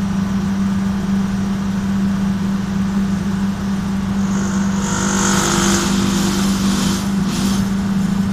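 Electric main motor of an industrial machine running with a steady hum, the motor being checked for an abnormal noise. A hissing noise joins from about four seconds in until about seven and a half seconds.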